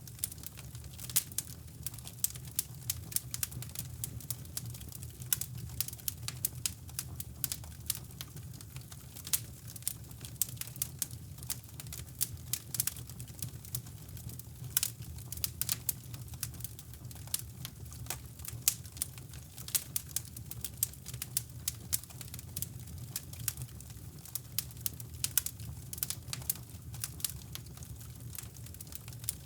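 Wood fire crackling in a fireplace, with dense, irregular sharp pops, over a steady low brown-noise rumble.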